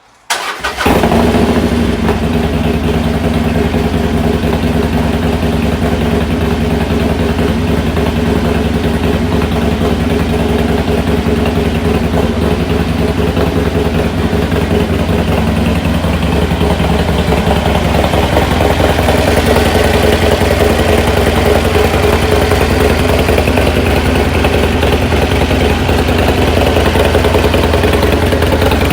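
Harley-Davidson Sportster's air-cooled V-twin, freshly bored out to 1200cc with an S&S Hooligan kit, cranked on the starter and catching about half a second in, then idling steadily: the first start after the big-bore conversion.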